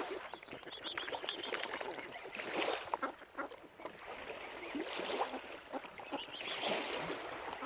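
Waterbirds such as ducks and geese calling in short, irregular calls over a noisy background.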